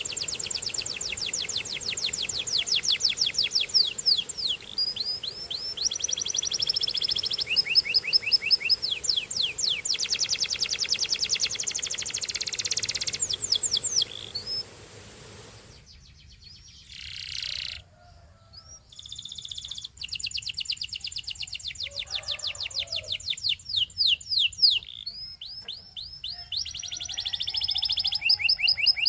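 Domestic canary singing fast trills and rolls of rapidly repeated high, down-slurred notes. About halfway through the song breaks off for a few seconds, then starts again.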